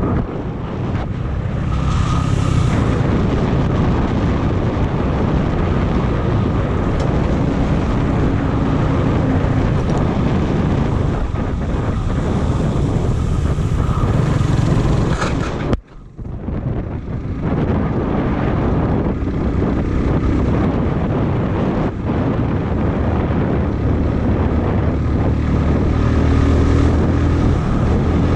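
Heavy wind noise buffeting the microphone of a moving motorcycle, with the engine running underneath. The sound cuts out sharply for a moment a little past halfway, then carries on.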